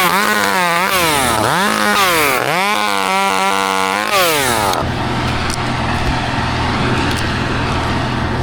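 Two-stroke chainsaw revving up and down several times in quick succession. About four and a half seconds in it gives way abruptly to a steady, lower engine drone.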